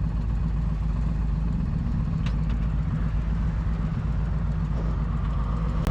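Big V-twin motorcycle engine running steadily at an even, unchanging pitch.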